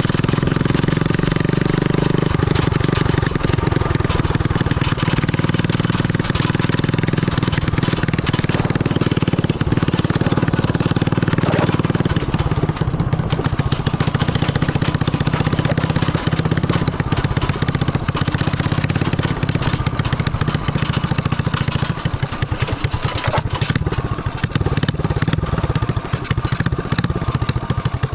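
250cc motorcycle engine of a homemade go-kart running steadily, with a continuous even pulse.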